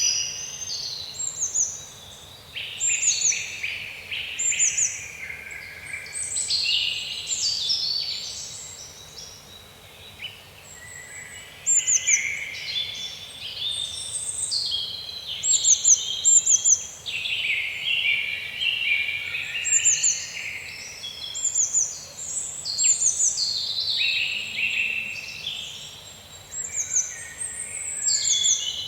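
Several woodland birds singing at once, their songs overlapping, with short high downward-sweeping notes repeated again and again.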